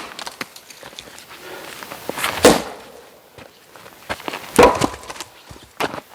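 Oak firewood logs being handled: three heavy wooden knocks, about two and a half, four and a half and six seconds in, with lighter clatter between.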